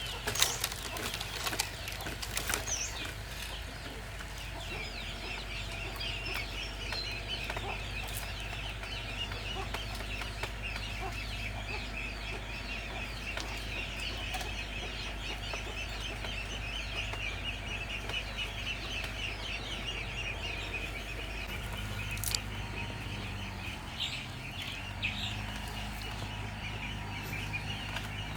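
Chickens clucking amid a dense, continuous chorus of high chirping, with a few sharp knocks in the first few seconds.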